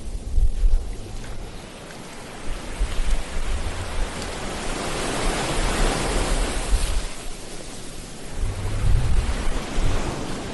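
Ocean surf washing onto a beach, one wave swelling to its loudest about five to six seconds in and then falling back. Low, uneven wind rumble on the microphone near the start and again near the end.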